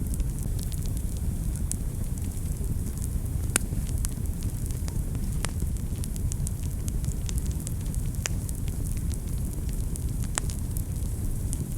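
Wood fire burning in a fireplace: a steady low rumble with irregular sharp crackles and pops, the loudest pop a little over three and a half seconds in.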